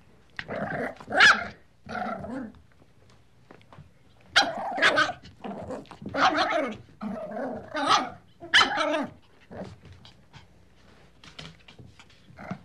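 A dog barking in about six short bouts, with pauses of a second or so between them.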